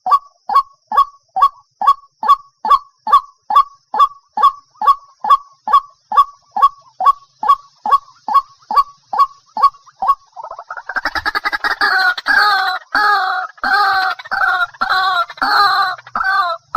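White-breasted waterhen calling: a steady series of single notes, a little over two a second, then about ten seconds in breaking into a louder, faster, harsher run of overlapping calls.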